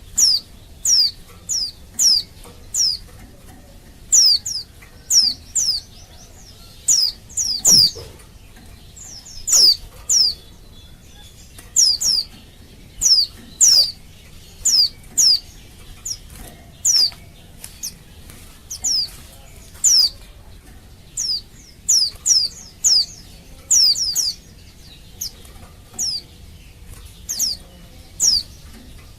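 Female white-eye (pleci) giving its call to males: short, very high notes that drop sharply in pitch, repeated in twos and threes about one or two a second.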